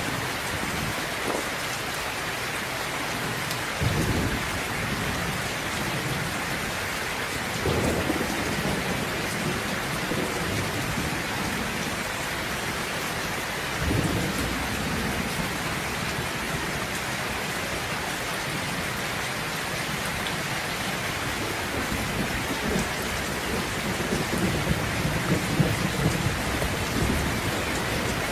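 Steady rain with rolls of thunder: low rumbles about 4, 8 and 14 seconds in, and a longer rumble building over the last several seconds.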